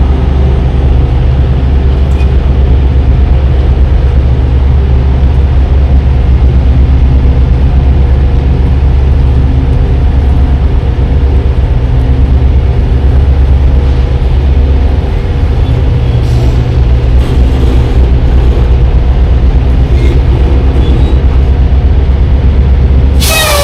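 A semi truck's diesel engine and drivetrain running on the road, a steady low drone with a few steady tones above it, which shifts briefly about fifteen seconds in. A burst of hiss comes in right at the end.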